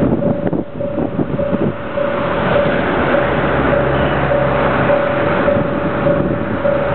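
JR 500 series Shinkansen train standing stopped on the line, a steady running hum from the train. A tone pulses through it about twice a second.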